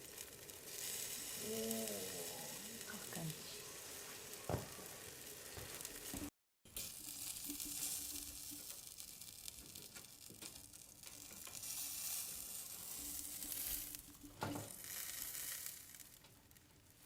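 Chicken yakitori skewers sizzling on a grill inside a wood-burning fireplace: a steady crackling hiss with two sharp pops.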